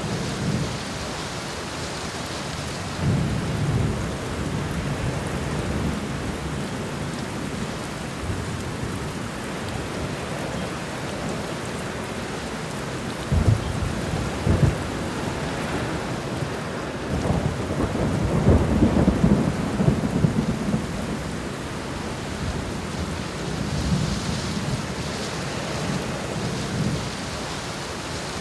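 Steady rain with rolling thunder. There is a rumble a few seconds in, two sharp cracks about halfway through, then a longer, louder rumble, and a softer one near the end.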